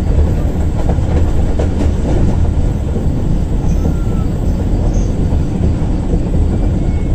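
Passenger train running along the track, heard from an open coach window: a steady, loud rumble of wheels on rails, with a few faint clicks from the track about one to two seconds in.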